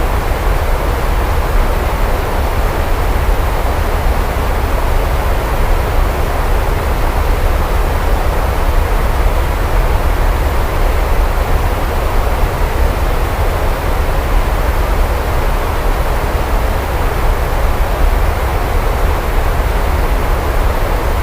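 Steady heavy rainfall, an even hiss with a deep, constant low rumble beneath it.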